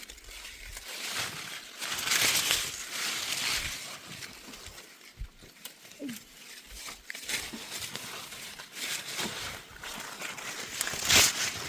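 Rustling and crackling of leaves and branches being handled, with scattered clicks and knocks and a short, sharp, loud crackle near the end.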